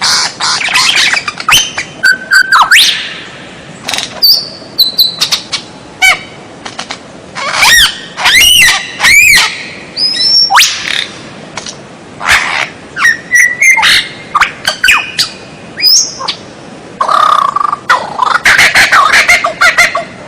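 White-rumped shama (murai batu) singing a loud, varied song in quick phrases with short pauses. It mixes high whistles, rising and falling slurred notes and rapid rattling clicks.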